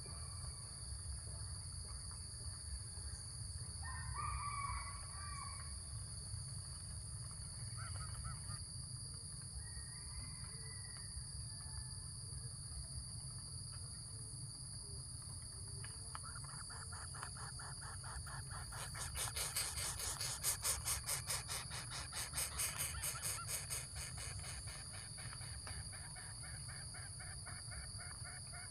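Bird calls: a few short calls, then about halfway through a long run of rapid harsh pulsed calls, loudest in the middle of the run. A steady high-pitched drone and a low rumble run underneath.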